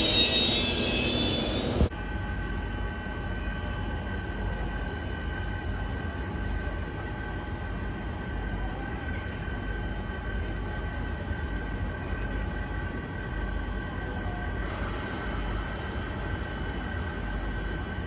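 A train passing close by, loud for about two seconds and then cut off abruptly, followed by a steady train hum with a faint, even high whine.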